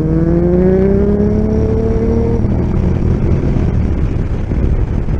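Motorcycle engine accelerating, its pitch rising steadily, until about two and a half seconds in when the engine note drops away and rushing wind on the microphone takes over.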